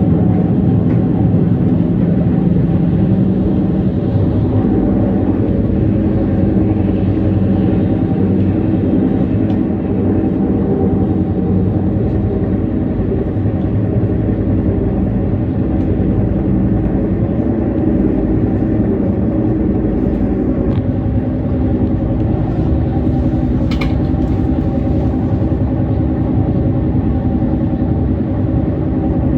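Passenger train running, heard from inside the carriage: a steady rumble of wheels on the rails with a constant hum. A single short click comes late on.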